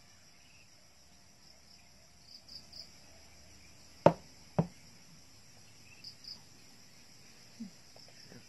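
Faint crickets chirping steadily. A little past halfway come two sharp knocks about half a second apart: hard plastic cups set down on a table.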